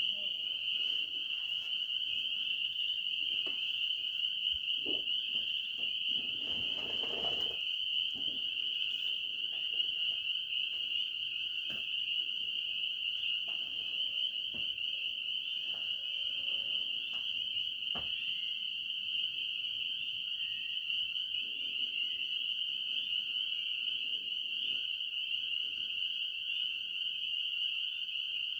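Steady, high-pitched night chorus of calling frogs and insects, a dense pulsing trill that never breaks. A brief rustle about seven seconds in.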